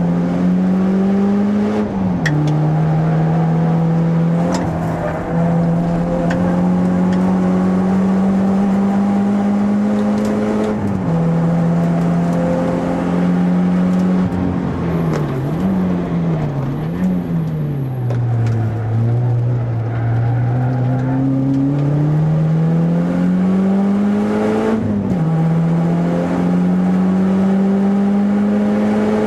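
Renault Clio RS2's 2.0-litre four-cylinder engine heard from inside the cabin, driven hard on track. Its pitch climbs steadily under full throttle and drops suddenly at each upshift. Around the middle it swings quickly down and up through downshifts under braking, then climbs slowly again as the car accelerates out of the corner.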